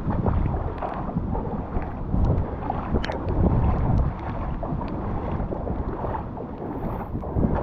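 Wind buffeting the microphone outdoors over the wash of floodwater, a gusty, uneven rumble.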